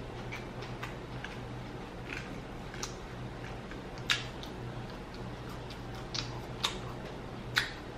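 Close-miked eating sounds of french fries being chewed: scattered wet mouth clicks and smacks at irregular intervals, over a faint steady hum.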